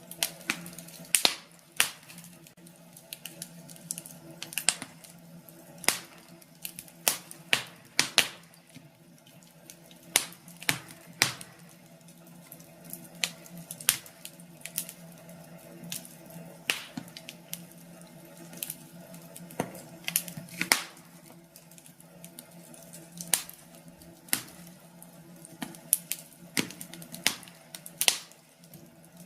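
Wood fire in a fireplace crackling: irregular sharp pops and snaps at uneven intervals, some louder than others, over a faint low steady hum.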